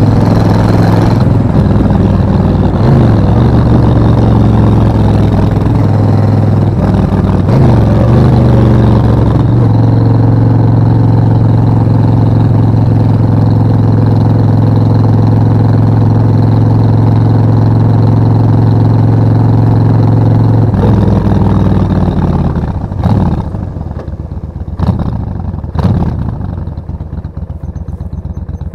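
Suzuki VS1400 Intruder V-twin engine running under way, its pitch stepping up and down a few times in the first ten seconds, then holding steady for about ten seconds. About 21 s in the engine eases off and gets quieter, with several short sharp bursts of noise near the end.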